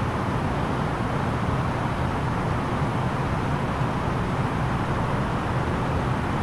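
Steady cabin noise inside an Airbus A330-900neo airliner in flight: an even rush of airflow with the low drone of its engines underneath.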